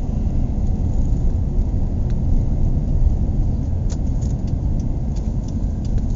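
A car driving, a steady low rumble of road and engine noise.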